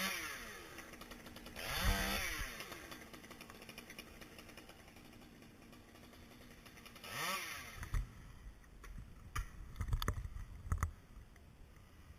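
A chainsaw blipped up in three short revs, near the start, about two seconds in and about seven seconds in, idling faintly between them. A cluster of sharp knocks and thuds follows between about eight and eleven seconds in.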